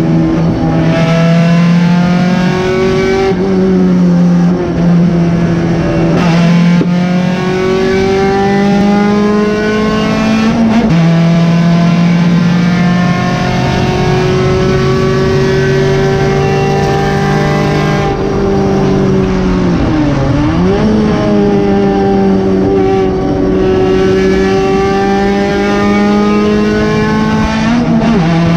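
Honda D16 1.6-litre four-cylinder engine of a 1991 Civic EF hatchback race car, heard from inside the cabin, pulling hard through the gears: its pitch climbs and drops with upshifts about 3, 6 and 11 seconds in, then holds at high revs. The revs dip and recover briefly around 20 seconds in and fall again near the end.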